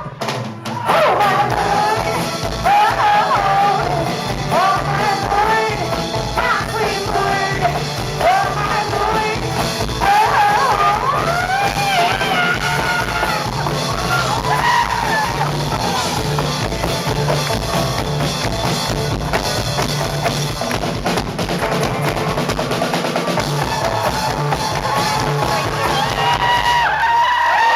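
Live band music with a drum kit keeping a steady beat and a melody line that bends up and down in pitch, growing louder near the end.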